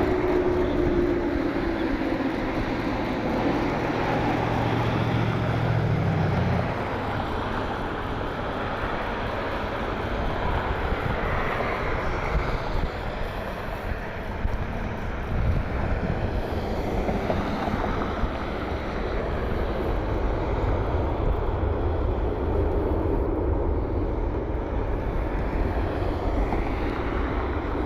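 Jet airliner engine noise, a steady rumble with wind blowing on the microphone; a low steady hum underneath stops about six and a half seconds in.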